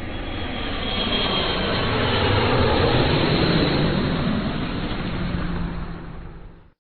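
An aircraft engine heard as a plane flies by: a steady, noisy sound that grows a little louder towards the middle and then fades away near the end.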